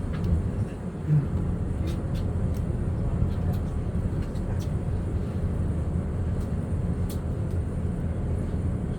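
Steady low rumble of outdoor ambience aboard a ship, with no clear single event.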